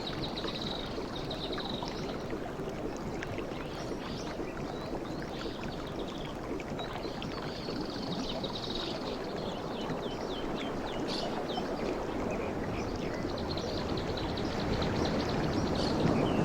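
Sea waves washing onto the shore: a steady rush of surf that swells louder near the end as a wave comes in.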